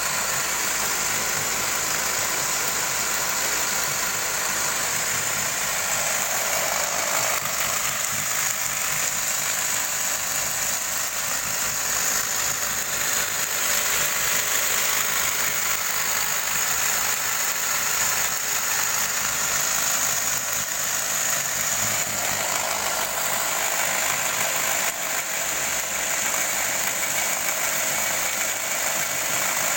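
Homemade belt grinder, driven by the electric motor from a water pump, running steadily with a continuous mechanical whir and a high hiss.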